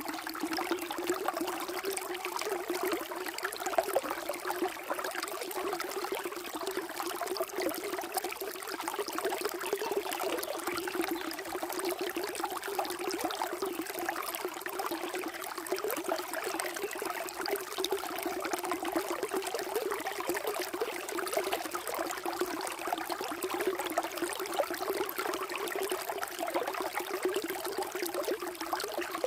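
Water flowing and trickling steadily, a continuous babbling with fine splashy detail and no pauses.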